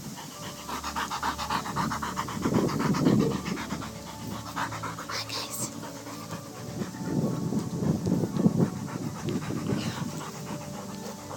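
Dog panting rapidly, with two louder spells partway through.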